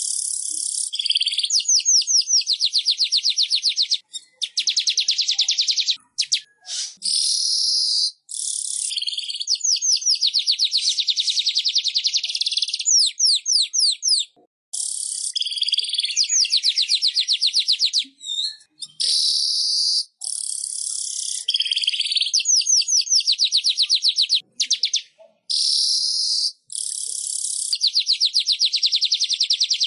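Manyar (weaver bird) singing: phrase after phrase of fast, buzzy chattering trills, each two to three seconds long with short pauses between.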